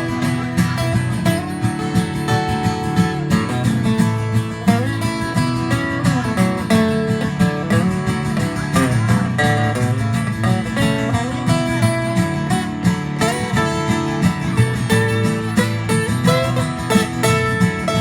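Acoustic guitar playing an instrumental break in a folk song, plucked notes over a steady rhythm.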